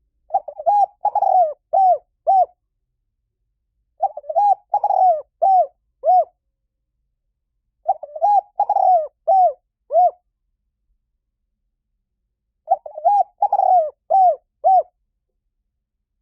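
Spotted dove cooing: four phrases of about five quick, throaty coo notes each, repeated about every four seconds with silence between.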